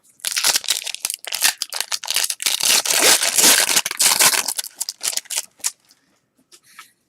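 Foil wrapper of a trading-card pack being torn open and crinkled in the hands, a dense crackling that stops about a second before the end.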